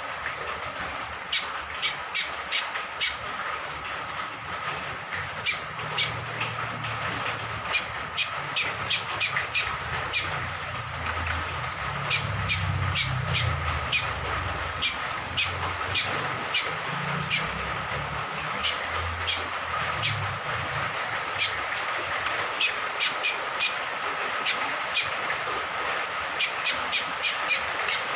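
Cucak kombok (kecial kombok) honeyeater giving short, sharp high calls over and over, often several in quick succession, over a steady hiss of rain. A faint steady high tone runs under it, and a low rumble rises and fades in the middle.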